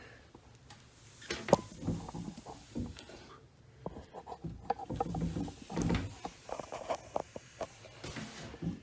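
Irregular clicks, knocks and rattles of hand tools and metal parts being handled while working on a toilet's mounting bolts, starting about a second in.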